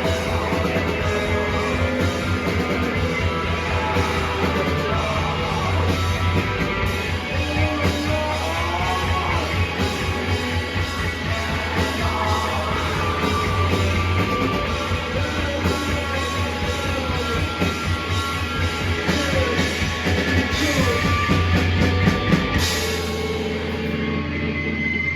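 Live rock band playing loud, with distorted guitars, bass, a pounding drum kit and shouted singing. Near the end the drums stop and the guitars ring on.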